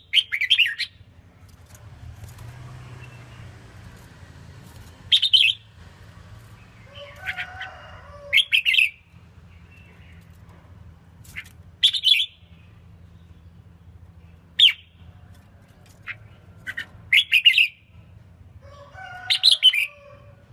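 Red-whiskered bulbul singing short, chirpy phrases of a few notes, one every few seconds, about seven times. It is a mild, low-spirited song rather than an aggressive, overpowering one.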